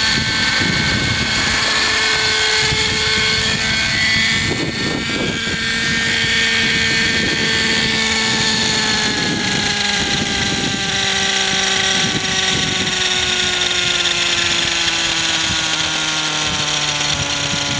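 Hirobo Sceadu model helicopter's .50-size nitro two-stroke engine and rotors running in flight, the whine slowly falling in pitch. The engine runs at lower revs than it should because its fuel mixture is off. Wind buffets the microphone underneath.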